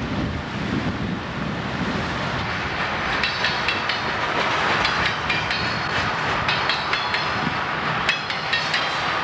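Loaded coal hopper cars of a freight train rolling past, their wheels clicking over the rail joints. From about three seconds in, groups of high metallic squeals come with the clicks.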